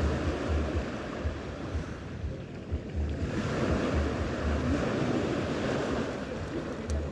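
Sea waves washing onto the shore in a surging wash, with wind buffeting the microphone in low gusty thumps.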